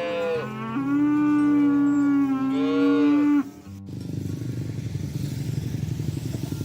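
A cow mooing in one long drawn-out call of about three seconds that cuts off abruptly, followed by a low, rough rumble.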